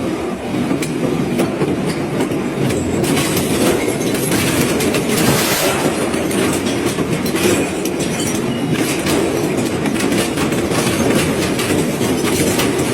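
Industrial shredder grinding and tearing up metal, probably an iron engine, with continuous heavy clattering and crunching.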